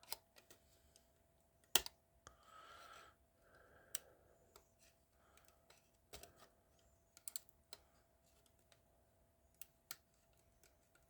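Scattered small plastic clicks and a brief scrape about two seconds in, as the parts of a painted plastic scale-model car are pried apart.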